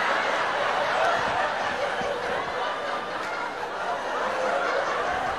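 Audience laughing together, a steady wash of many people's laughter that eases off slightly toward the end.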